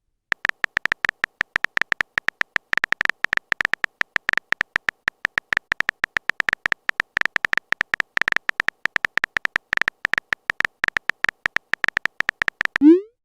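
Typing sound effect for text messages: a rapid, irregular run of short clicks, several a second, each with a brief high beep.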